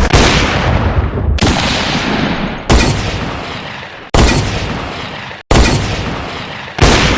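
A series of six loud explosion-like booms, about one every 1.4 seconds, each hitting suddenly and dying away before the next.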